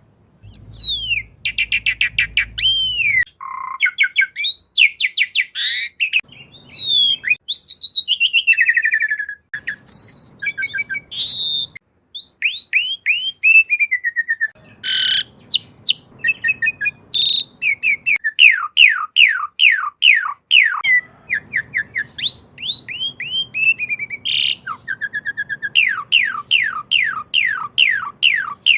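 Asian pied starling (jalak suren) singing a long, varied song of whistles, chirps and rapid trills, with short breaks between phrases.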